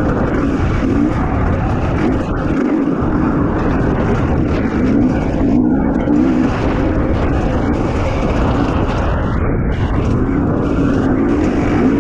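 KTM 250 XC-W two-stroke dirt bike engine running at low revs under load, swelling and easing every second or two as the throttle is worked.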